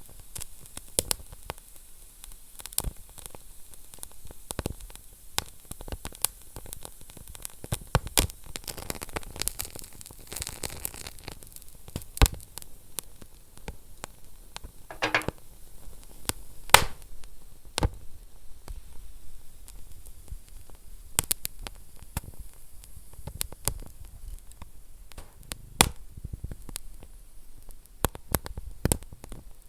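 Wood fire burning in a fireplace, crackling over a soft hiss with irregular sharp pops, a few much louder than the rest, and a brief hiss about halfway through.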